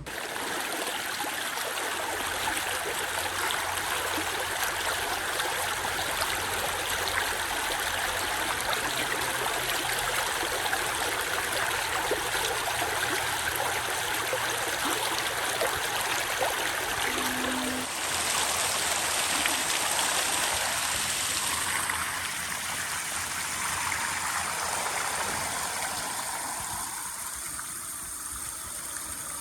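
Steady rush of a stream's running water, its sound changing about two-thirds of the way through and growing fainter near the end.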